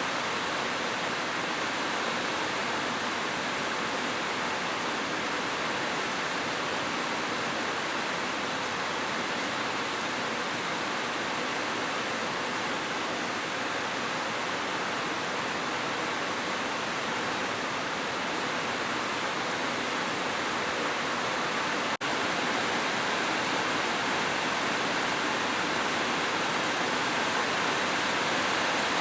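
Heavy rain falling as a steady, even hiss. About two-thirds of the way through there is a brief click, and the rain is slightly louder after it.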